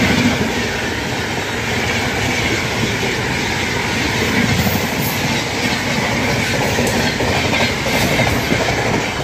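Indian Railways passenger express passing close by at speed on the next track: a loud, steady rush of coaches and wheels clattering over the rail joints.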